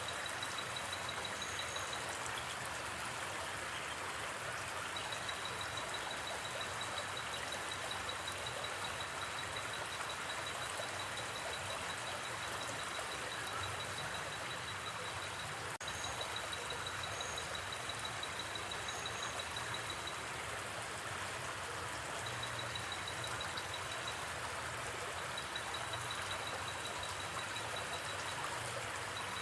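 Steady rush of a gently flowing river. Over it, a high, rapidly pulsing trill of night insects comes and goes in stretches of several seconds, with a few short higher chirps. There is one faint snap about halfway through.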